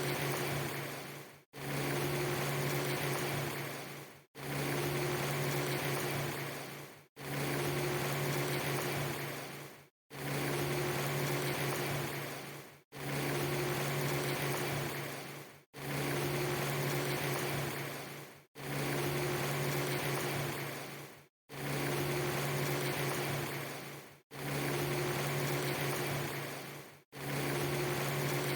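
A short ambience loop of steady noise under a low, steady hum, repeating about every three seconds. Each repeat fades and cuts briefly to silence before the next.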